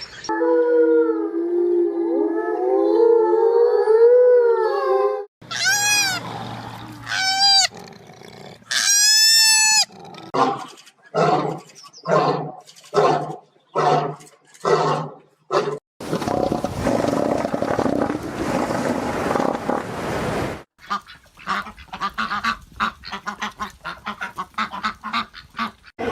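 A run of different animal calls cut one after another: a long wavering call, several high rising-and-falling cries, a series of about six evenly spaced calls, then a noisy stretch and a rapid train of short pulses.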